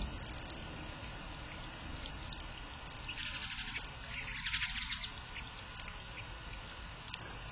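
Western bluebird splashing in a bird bath: two short bouts of rapid watery patter, about three seconds in and again at four and a half seconds, over a steady hiss.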